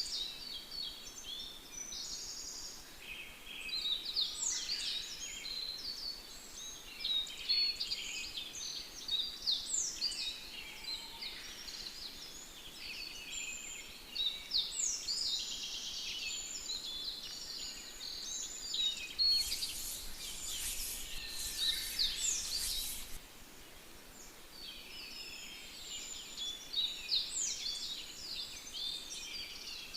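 Songbird chorus: many birds chirping and trilling at once, the calls overlapping. About two-thirds of the way through, a few seconds of hissing, rustling noise cover it, followed by a brief lull in the birdsong.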